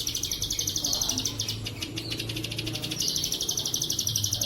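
Ciblek sawah (bar-winged prinia) singing a fast, evenly pulsing high trill in the bren-cicada style. The trill eases midway and comes back strongly about three seconds in.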